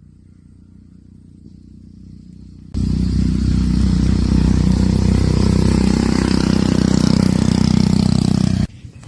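A loud, steady engine-like drone that starts suddenly about three seconds in and cuts off abruptly near the end, after a faint low hum.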